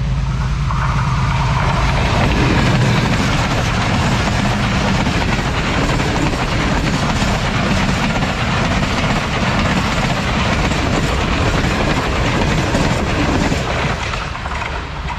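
Diesel-hauled express passenger train passing close by at speed. The locomotive's engine is heard at the start, then the steady rush and rumble of the coaches' wheels on the rails, easing near the end as the last coach goes by.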